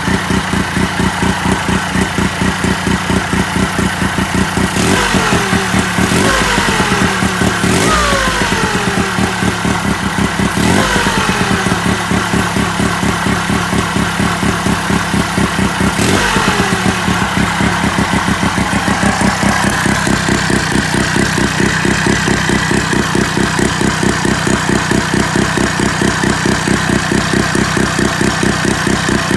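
Sachs KM48 single-rotor Wankel engine running, revved briefly about five times in the first half, each rev falling away again, then running steadily.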